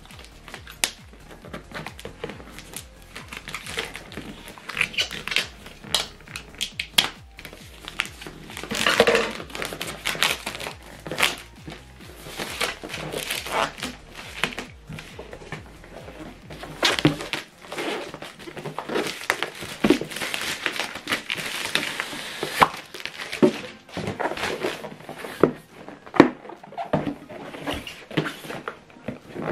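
Cardboard and paper packaging being torn open and handled: crinkling, tearing and rustling with many sharp clicks. Faint background music underneath stops about halfway through.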